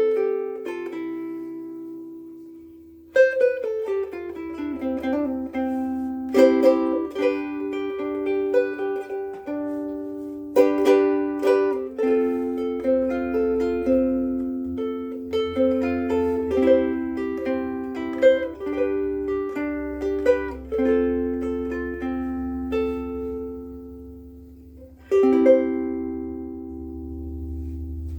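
Pono Kalele soprano ukulele with a curly mango body and Aquila Reds strings, played solo: chords struck and single notes picked, each left to ring out and fade slowly with long sustain.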